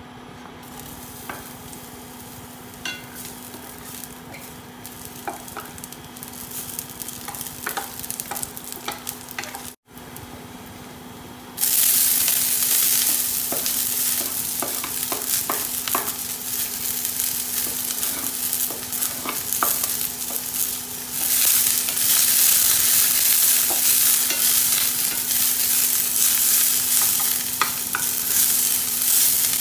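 Cooking oil frying quietly in a stainless steel pan, with scattered small pops. A little over a third of the way in, a much louder, steady sizzle starts as sliced onion and garlic fry in the hot oil, stirred with a wooden spatula.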